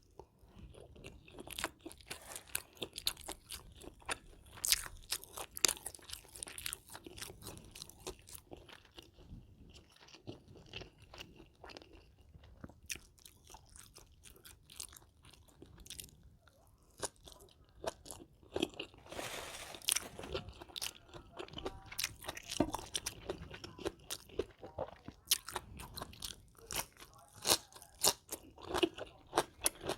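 Close-miked eating of grilled catfish: an uneven run of crisp crunches and chewing, with a denser burst of crunching about two-thirds of the way through.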